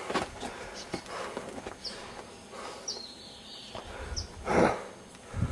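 Outdoor ambience: a few short, high bird chirps over faint rustling and handling noise, with a louder rush of noise near the end.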